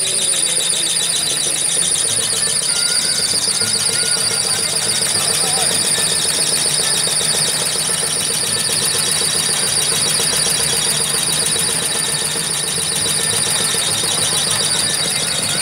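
Supercharged V8 of a hot rod idling, with a steady high-pitched whine pulsing quickly over the engine's beat.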